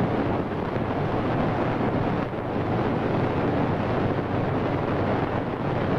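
A steady rushing noise with no pitch or rhythm, even in level throughout.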